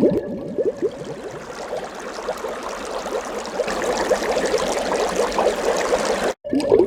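Thick, cheesy hot dish of leftovers, milk and processed cheese bubbling in a pan on low heat, a dense run of quick bubble pops. It drops out briefly near the end and picks up again.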